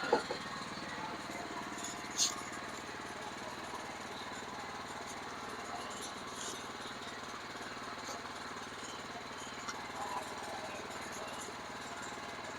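Sawmill engine running steadily, with a sharp click about two seconds in.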